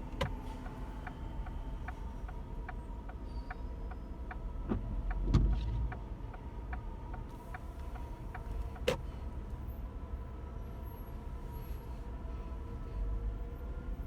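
Car cabin in slow traffic: a steady low rumble of engine and road, with a regular ticking about three times a second for the first eight seconds. A heavier thump comes about five seconds in, and a single sharp click near nine seconds.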